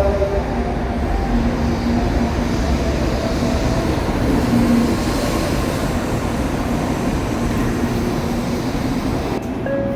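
Shinkansen train running: a steady low rumble with a faint hum over it. Near the end the hiss thins out and a tone begins.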